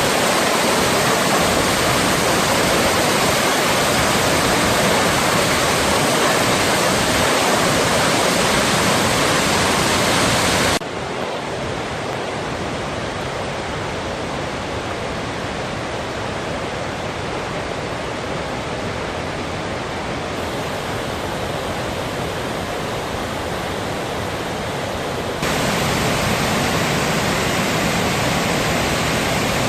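Waterfall rushing in a steady roar of falling water. It drops abruptly to a softer level about eleven seconds in and comes back up just as suddenly near the end.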